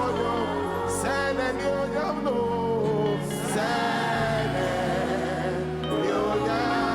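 Slow worship music: sustained keyboard chords with wordless vocal lines held and bending over them, a couple of breathy sounds about one and three seconds in.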